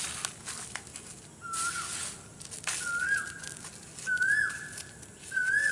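A bird's short whistled call, rising then dipping, repeats four times about every second and a half. Between the calls come soft scrapes and rustles of hands scooping crumbly soil into a small plastic cup.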